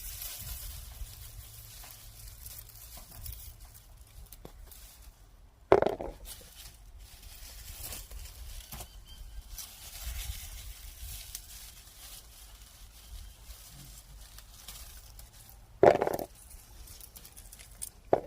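Cucamelon vines and leaves rustling and crinkling as the small fruit are picked by hand. Three short, loud sounds cut through it: about six seconds in, again near the end, and once more right at the end.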